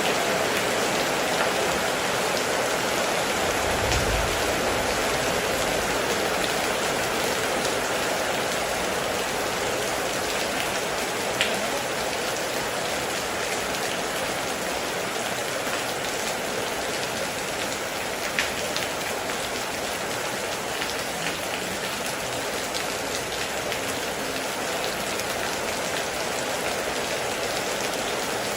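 Steady heavy rain, an even dense hiss with a few louder single drops striking now and then. A brief low rumble comes about four seconds in.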